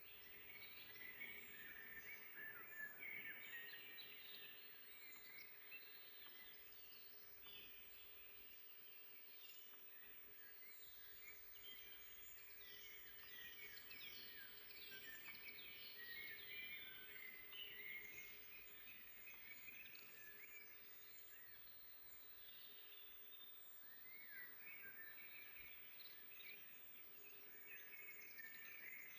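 Several songbirds singing at once in a forest, a quiet, continuous mix of short chirps and trills over soft background hiss.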